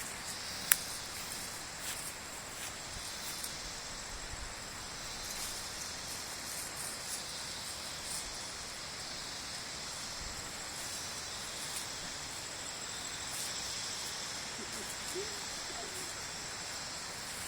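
Steady high-pitched chirring of insects in forest, with one sharp click about a second in.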